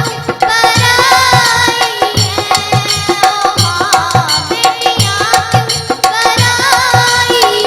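Live Indian folk music: a steady drum beat under a held drone and a wavering melody line.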